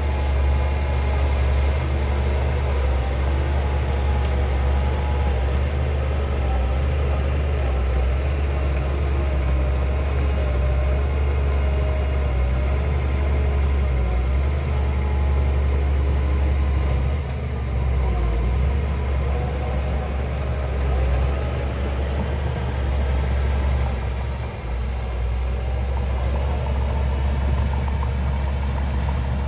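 Heavy diesel engine of earthmoving machinery running steadily with a deep drone and a faint wavering whine above it, dipping briefly twice.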